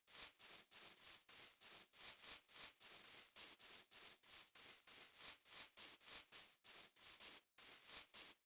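Faint static hiss pulsing in quick, even bursts, three or four a second, with a brief break about three-quarters of the way through.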